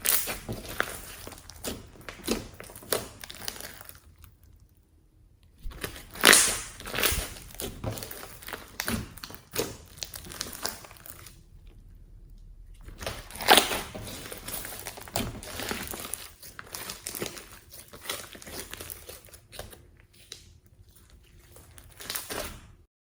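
Slime being squished and kneaded by hand: three bouts of close-up clicking and crinkly noise separated by short pauses, stopping abruptly near the end.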